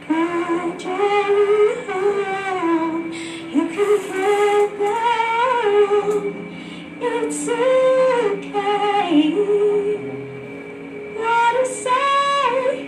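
A woman singing a slow, melodic song over a soft accompaniment, held notes and gliding phrases with short breaths between them.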